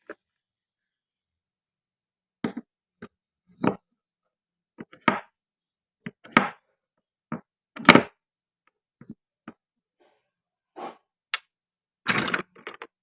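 Irregular short clicks and knocks from toy wooden or plastic fruit pieces being cut and handled on a board, with silence between them and a quick cluster near the end.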